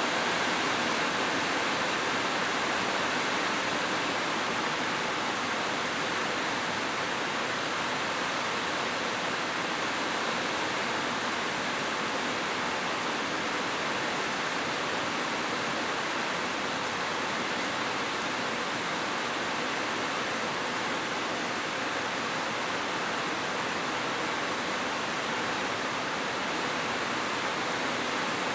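Heavy rain falling, a steady even hiss with no single drops, thunder or other sounds standing out.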